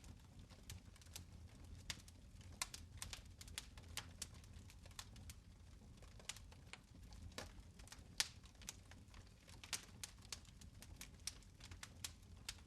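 Fire in a fireplace crackling: faint, irregular sharp pops, a few a second, over a low steady rumble.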